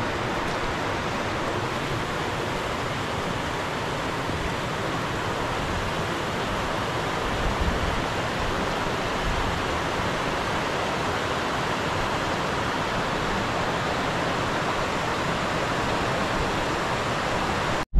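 Waterfall: a steady, even rush of falling water, cutting off abruptly just before the end.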